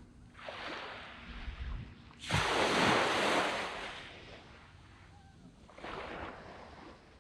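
Sea waves breaking and washing up a sandy beach, in three rushes. The biggest breaks about two seconds in and hisses away over a second or two; a smaller one follows near the end.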